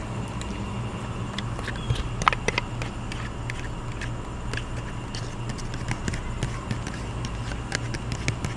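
A person eating with dentures: scattered short clicks and smacks of the mouth and spoon, the strongest about two seconds in, over a steady low hum from an outdoor air conditioner.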